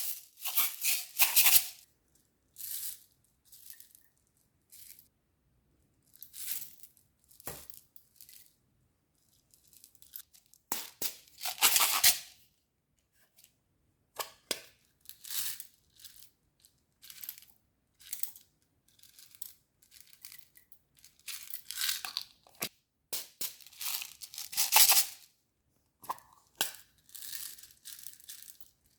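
Wood fire crackling, with irregular sharp pops and short flurries of snapping separated by quieter gaps. Louder clusters of crackles come about eleven seconds in and again from about twenty-two seconds.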